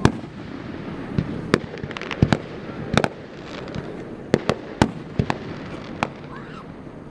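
Aerial fireworks bursting: an irregular run of about a dozen sharp bangs and cracks, the loudest right at the start.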